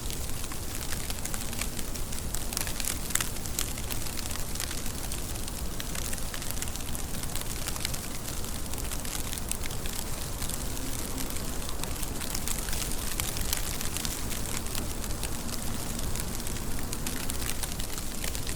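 Steady rain falling, a dense even hiss of drops with many sharper individual drop taps.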